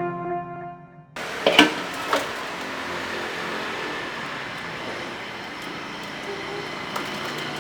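Intro music cuts off about a second in, followed by a steady rushing hiss with two sharp knocks soon after and one more near the end.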